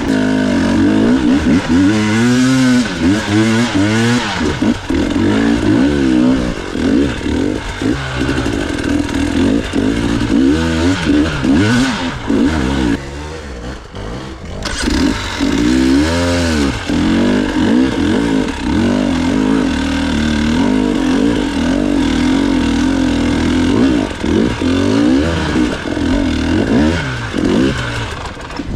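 Enduro motorcycle engine revving up and down in repeated throttle bursts, easing off briefly about halfway, then held at a fairly steady pitch with small wavers of the throttle.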